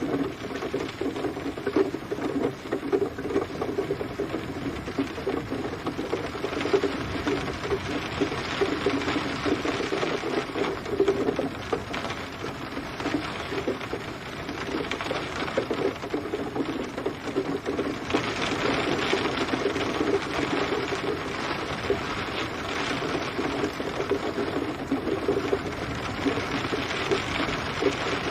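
Steady rain: a dense patter of drops, a little brighter from about 18 seconds in.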